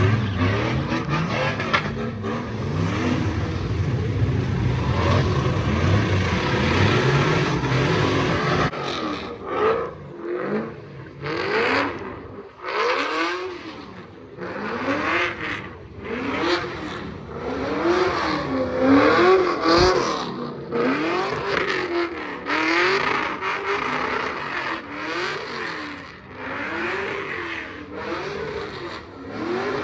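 Car engine revving hard at a sideshow. For the first several seconds it is a dense, deep running sound; after that the pitch swings up and down again and again, about once every second or two, as the throttle is worked in a stunt.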